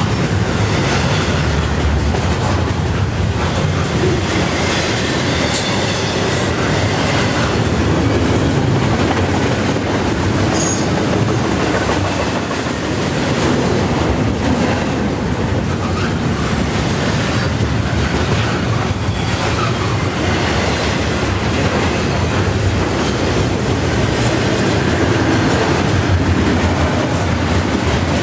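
Double-stack intermodal well cars of a freight train rolling past at about 40 mph: a steady rumble of wheels on rail with a faint clicking of wheels over the rail joints.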